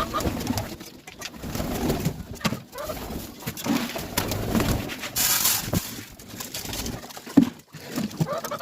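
Domestic pigeons cooing in low, repeated calls, with a brief rustle about five seconds in.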